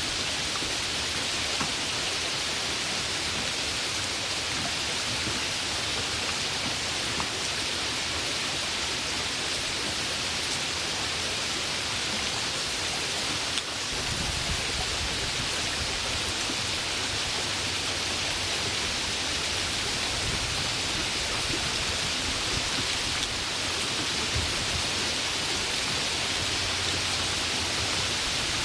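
Steady rain falling, a dense even hiss with no breaks. The level dips briefly about halfway through, and a faint low rumble sits under the hiss in places after that.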